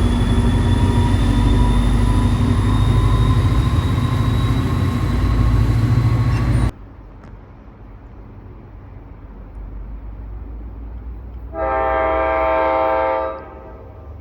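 NJ Transit train running close by, a loud rumble with steady tones slowly rising in pitch, which cuts off abruptly about halfway through. Then a quieter train rumble and, near the end, a single train horn blast of nearly two seconds.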